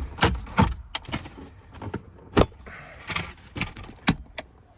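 Plastic dash trim pieces clicking and knocking as they are pulled loose from their retaining clips: a string of sharp, irregular clicks and knocks, the loudest about two and a half seconds in.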